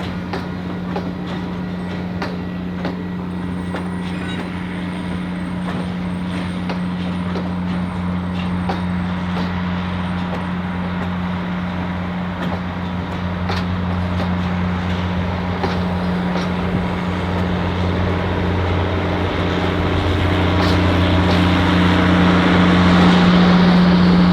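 Train on the rails with a steady low hum and scattered sharp clicks, growing louder toward the end as it comes closer.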